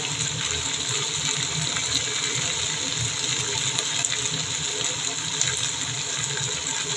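Chicken strips frying in butter in a nonstick pan, a steady sizzling hiss with a low hum underneath.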